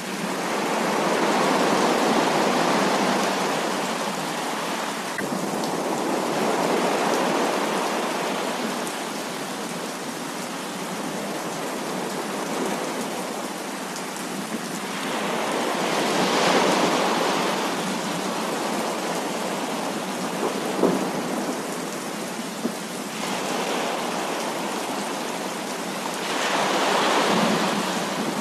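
Heavy rain pouring steadily, with thunder rolling in slow swells four times. Two short sharp cracks come a little past the middle.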